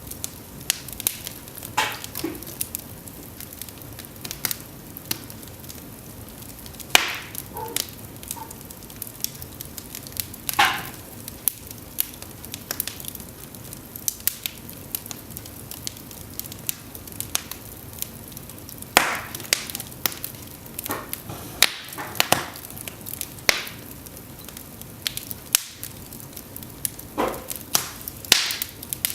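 Cedar logs burning in an open fireplace: a steady low hiss broken by frequent sharp snaps, crackles and pops at irregular intervals, with louder clusters of pops about a third of the way in, past the middle and near the end.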